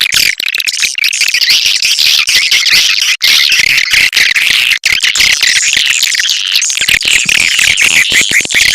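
Swiftlet lure-call recording: a dense, continuous, high-pitched chatter of many swiftlet chirps and twitters, the kind of call played in swiftlet houses to draw the birds in to nest.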